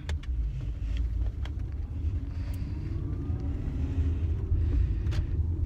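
Car engine and road noise heard from inside the cabin while driving: a steady low rumble with a faint hum over it and a few light clicks.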